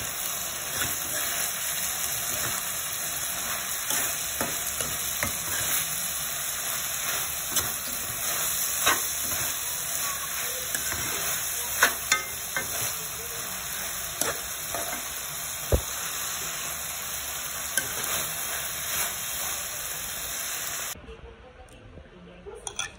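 Green beans, eggplant and pork sizzling as they stir-fry in a steel wok, with a spatula scraping and knocking against the pan now and then. The sizzle cuts off suddenly about 21 seconds in.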